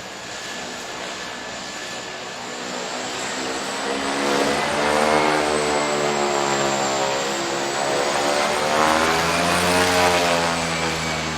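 A propeller aircraft's engines running loud with a steady high whine. The sound grows louder from about four seconds in and sweeps up and down in pitch as the plane moves past.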